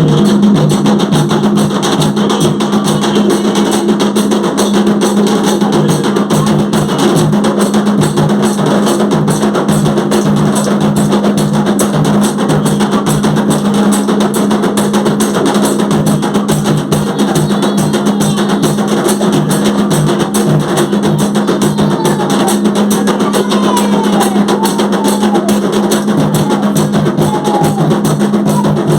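Drum-led percussion music playing loudly and steadily in a fast, even rhythm, with a few faint wavering melodic lines near the end.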